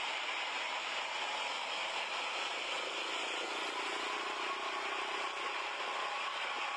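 Bus engine and road noise, steady, with a faint held tone for a few seconds midway.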